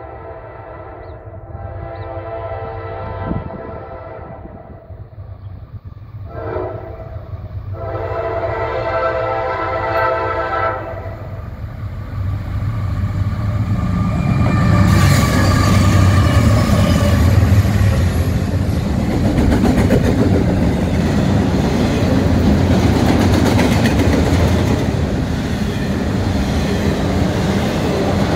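Norfolk Southern freight train's diesel air horn sounding long blasts with a short one between as the train approaches. About halfway through, three diesel locomotives pass with a loud engine rumble, then double-stack container cars roll by, their wheels running over the rails.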